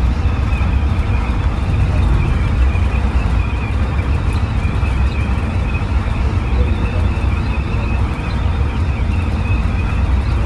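Scania running under way: a steady low engine rumble with road noise and no change in revs.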